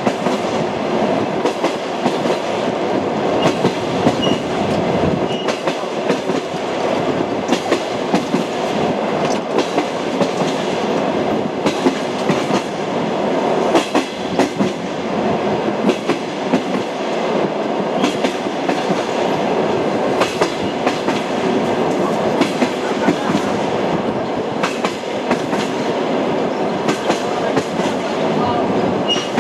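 Railway train wheels clattering on the track, over a steady rumbling running noise, with frequent sharp clicks and knocks.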